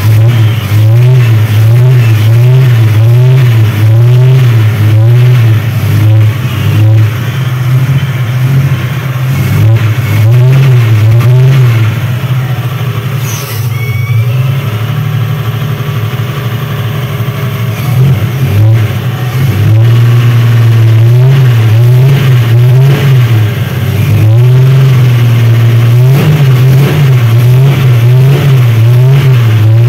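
Chevrolet Opala engine running with a regular rise-and-fall pulse about once a second, steadier and a little quieter for several seconds midway before the pulse returns. The strange noise is being tested as timing gear against an air leak, and it turns out to be an air leak at the base of the manifold.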